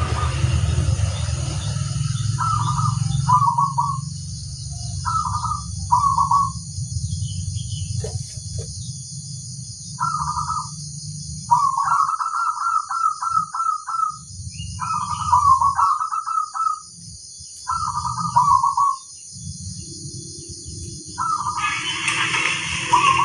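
Zebra dove (perkutut) cooing: about seven short song phrases of quick repeated notes, with pauses of a second or more between them, over a low steady rumble.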